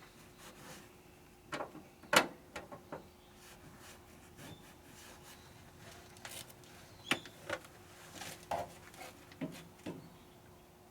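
Scattered knocks, clicks and light scrapes, the loudest about two seconds in, over a faint steady hum.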